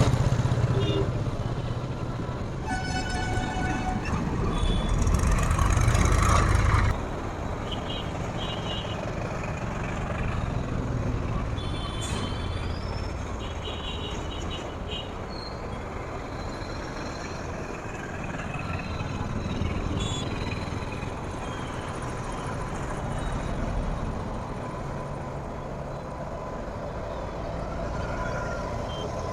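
Railway station sounds from Indian Railways trains: a short horn toot about three seconds in and a heavy low rumble that cuts off suddenly at about seven seconds, followed by steady background noise with scattered faint high tones.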